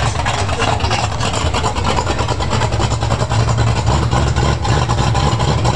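Ford pickup truck's engine idling steadily with a low exhaust rumble.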